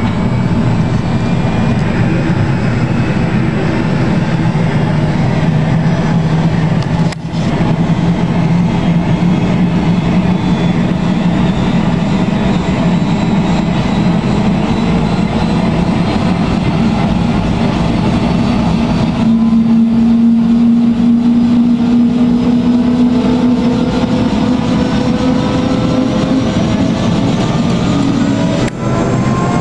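Helicopter engine and rotor running with a loud, steady drone carrying several pitched tones. About two-thirds of the way through, the tones begin to climb slowly in pitch. The sound briefly drops out twice.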